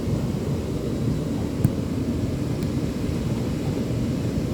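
Ocean surf on a beach, heard as a steady low rumble with little hiss above it, and one brief click about a second and a half in.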